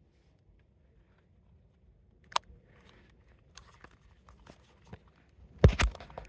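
Hard plastic of an air-conditioner remote being handled and worked at: a sharp click, then scattered small clicks and crackles, with a couple of heavy knocks near the end.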